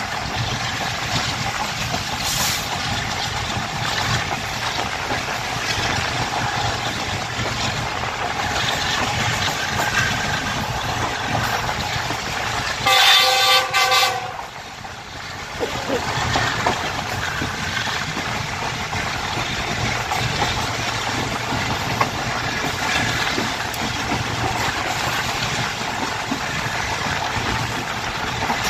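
Tez Gam Express passenger train running steadily along the track, with a horn sounding once, loud, for about a second and a half about halfway through; the running noise dips briefly just after it.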